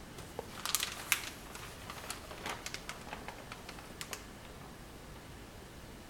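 A run of light, irregular clicks and taps, a dozen or so over about four seconds, the loudest near the start, then they stop.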